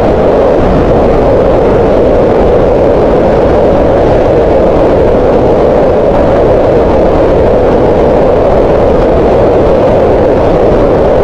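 Green noise: steady, unchanging generated noise, a rushing hiss centred in the middle of the hearing range, with little deep rumble or high fizz.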